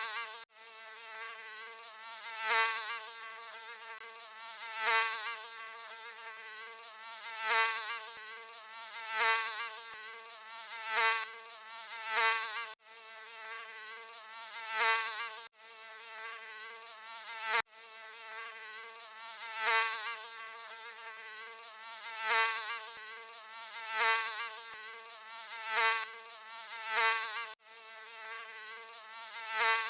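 Mosquito wing buzz: a high, thin whine that swells and fades every two seconds or so, as if flying close past the ear. A few times it cuts out suddenly for an instant where the recording is looped.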